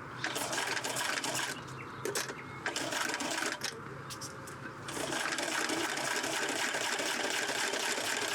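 Electric sewing machine stitching in short runs, stopping for a moment near the middle, then running steadily from about five seconds in.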